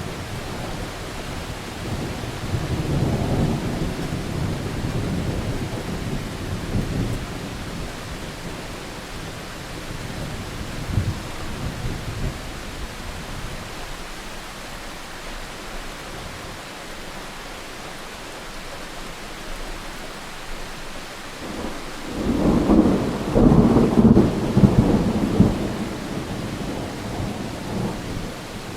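Steady rain with rolling thunder: a long rumble in the first few seconds, a brief one near the middle, and a louder, crackling roll about three-quarters of the way through.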